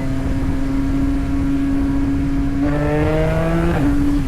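Yamaha MT-09's three-cylinder engine running steadily while riding, then pulling up in pitch for about a second near the end before dropping back as the throttle eases or a gear changes.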